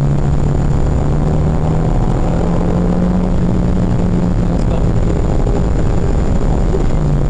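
Renault Mégane R.S. R26.R's 2.0-litre turbocharged four-cylinder engine pulling hard at track speed, heard from inside the cabin, with a steady drone and road rumble. The engine note drops a little near the end.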